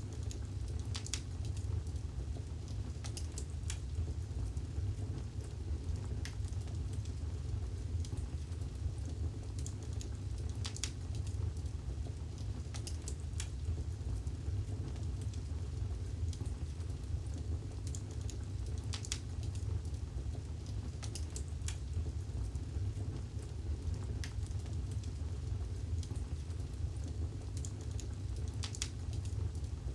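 Wood fire burning in a fireplace: a steady low rush of flames with sharp crackles and pops scattered every second or two.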